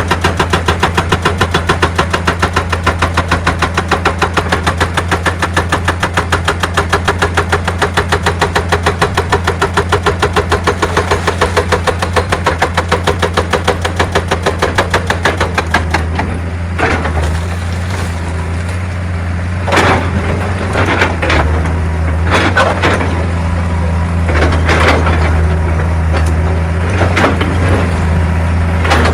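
Excavator-mounted hydraulic rock breaker hammering rapidly and evenly, about six blows a second, over the steady run of the diesel engine. The hammering stops about halfway through; the engine runs on with scattered cracks and knocks of rock.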